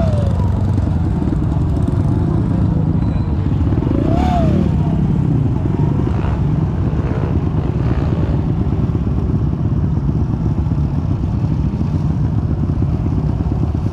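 Kawasaki KLX trail motorcycle's single-cylinder four-stroke engine running steadily while riding, with a brief rise and fall in revs about four seconds in.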